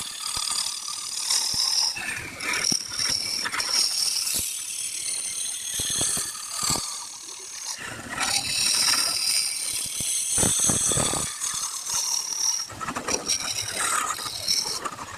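Wood lathe running with a turning tool cutting the spinning wood: a continuous high scraping with irregular clicks and rattles.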